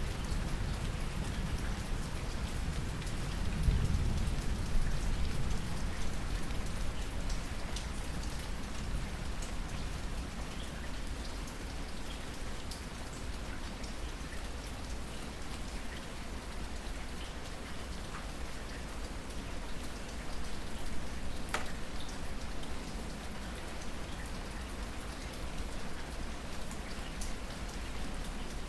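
Steady rain falling, with scattered drops ticking, and a low rumble of thunder swelling about four seconds in before fading back into the rain.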